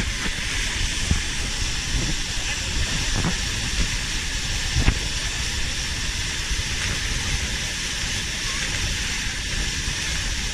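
Waterfall rushing steadily, a constant full hiss of falling water, with a few faint knocks.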